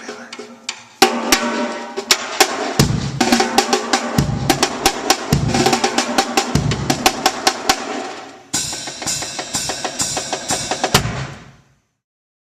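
Live jazz drum kit played hard and fast: rapid snare and cymbal strokes over bass-drum thumps, with held band tones underneath. It breaks off abruptly near the end.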